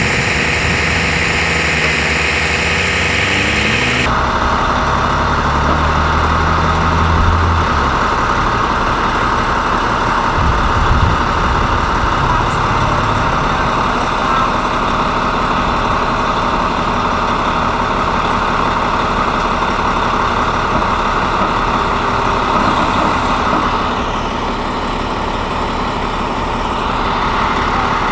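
Fire truck's diesel engine running steadily at close range, its pitch shifting a little in the first few seconds.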